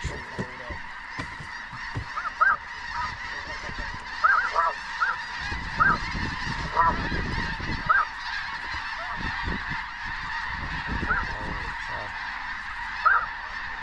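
A large flock of snow geese calling: a dense, continuous chorus of high honks with many separate nearer calls standing out.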